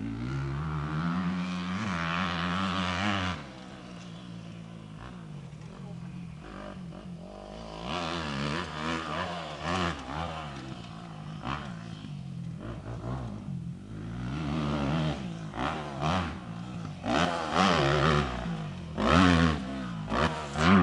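Motocross bike engine revving hard, its pitch rising and falling again and again with throttle and gear changes. The throttle shuts off about three seconds in, and there are louder rough bursts near the end.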